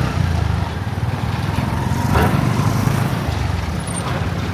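Vehicle engine running steadily while travelling along a road, a low drone with road noise.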